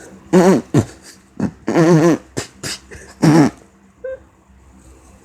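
A voice making a run of short, pitched calls, each sliding up and then down in pitch. Three louder, longer ones fall near the start, about two seconds in and just past three seconds, with shorter yips between them. A single faint one comes about four seconds in.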